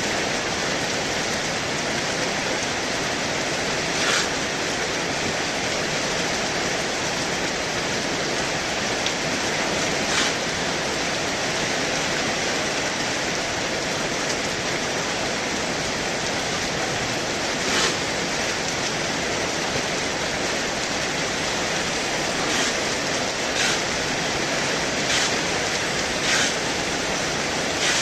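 Heavy rain pouring down steadily as a dense hiss, with a few brief louder moments every several seconds.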